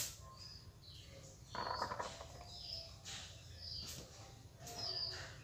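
Small birds chirping: short high chirps about once a second. A brief, louder burst of noise comes about a second and a half in.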